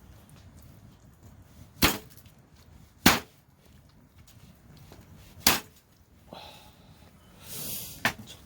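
Four sharp chopping strikes of a blade into wood, spaced a second or two apart, with a brief rushing hiss just before the last one.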